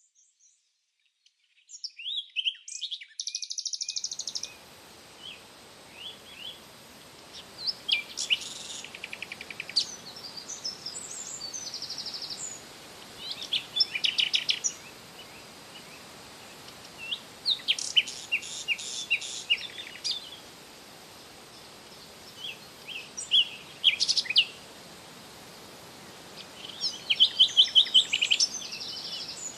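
A songbird singing: short, high-pitched phrases of rapid chirps and trills, repeated about every four to five seconds over a steady background hiss.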